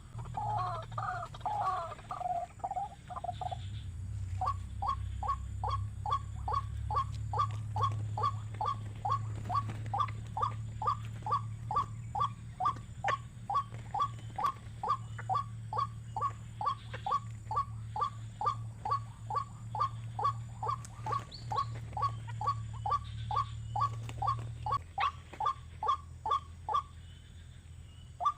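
Bird call used as a trapping lure: a few seconds of quick warbling notes, then a short note repeated very evenly about twice a second. A low steady hum runs underneath and stops near the end.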